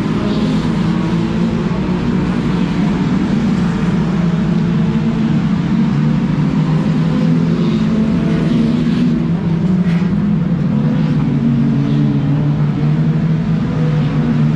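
Steady, loud drone of engines running, with a slightly wavering pitch and no clear pass-bys.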